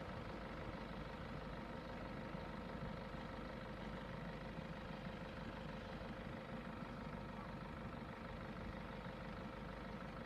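A vehicle engine idling steadily with an even hum.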